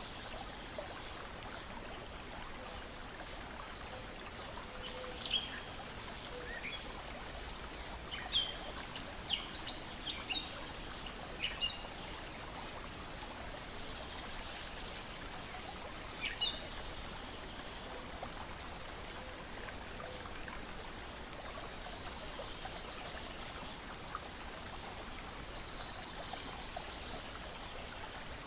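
Lake water lapping and trickling steadily, with birds chirping in short, sharp high notes: a cluster of chirps a few seconds in, one more about midway, and a brief quick trill shortly after.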